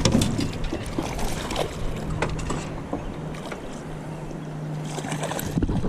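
Steady low hum of a fishing boat's motor, with scattered clicks and knocks on the hull and gear.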